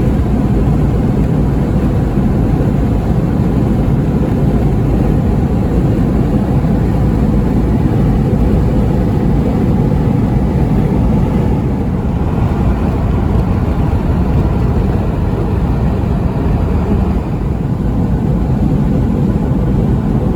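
Car driving along a road: a steady, loud low rumble of engine and tyre noise.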